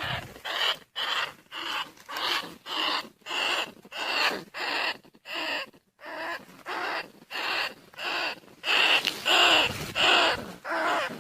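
Rat lure call: a steady run of short, shrill rat squeaks, about one and a half a second with brief gaps, played to draw rice-field rats and bandicoot rats. The squeaks grow louder near the end.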